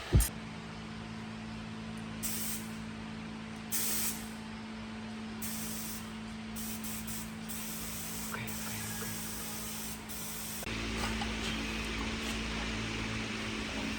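A sharp knock, then several short hissing bursts of spray or compressed air over a steady low hum; the background noise grows louder about three-quarters of the way through.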